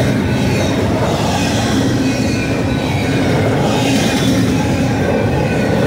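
Double-stack intermodal well cars of a freight train rolling past close by: a steady, loud rumble of steel wheels on rail, with faint high-pitched wheel squeal over it.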